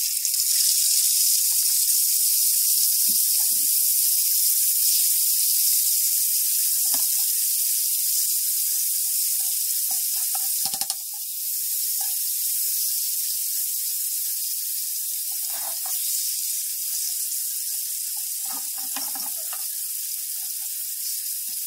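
Yogurt-marinated chicken pieces frying in hot oil on a tawa, a flat griddle pan, with a steady high sizzle. A few faint scrapes and clinks come from the metal spatula stirring the pieces.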